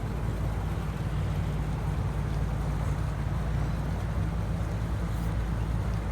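Heavy storm runoff rushing steadily down a hillside into a gully, a constant rush of water with a deep low rumble underneath.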